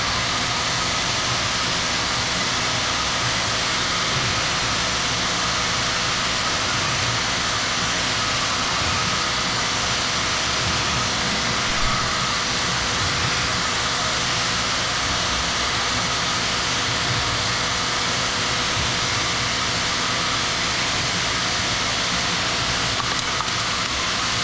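A machine running steadily and loudly, an unbroken rushing noise, with a single brief knock about twelve seconds in.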